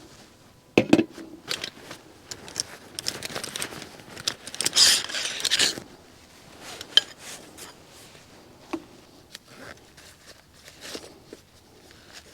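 Objects being handled: scattered clicks and knocks, the loudest about a second in, and a rasping rustle lasting about a second near the middle.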